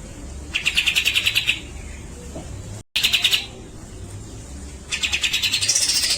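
Grey-cheeked bulbul (cucak jenggot) singing in three bursts of rapid, rattling trills. The last burst is the longest and sweeps up in pitch near its end.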